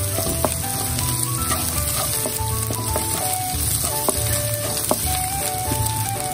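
Diced onion, carrot and meat sizzling in hot oil in a pan while a spatula stirs them, with scattered scrapes and clicks of the spatula against the pan.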